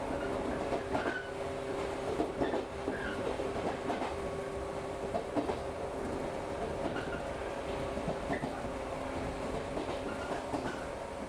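Local electric train running along the track, heard from inside the passenger car: a steady rumble of the wheels with a steady hum, and irregular clicks as the wheels pass over rail joints.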